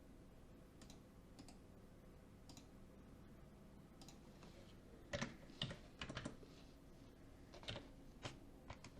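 Faint taps on a computer keyboard: a few short clicks in quick clusters over the second half, against near-silent room tone.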